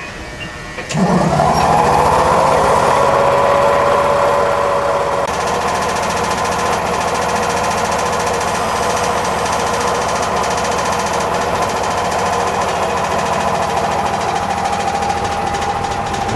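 Electric air compressor under a stopped Chichibu Railway 5000 series train kicking in about a second in, then running steadily with a hum and a fast even chugging.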